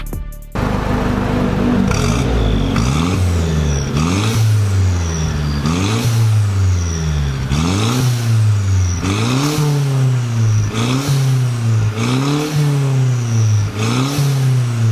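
Mercedes-Benz SLK200 R172's turbocharged four-cylinder engine, fitted with an aftermarket muffler kit, revved repeatedly: the exhaust note rises and falls about once a second.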